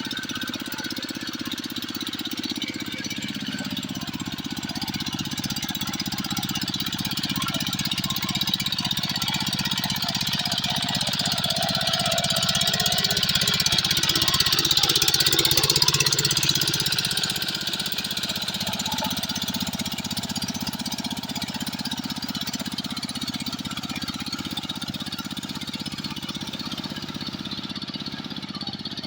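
Two-wheel hand tractor's engine running steadily under load while working through rice-field mud. It gets louder toward the middle, peaking about halfway through, then eases back.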